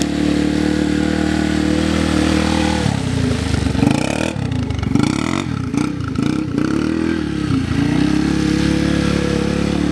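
Yamaha TT-R125 dirt bike's single-cylinder four-stroke engine running at a steady note, then revving up and down repeatedly for several seconds in the middle before settling back to a steady note near the end.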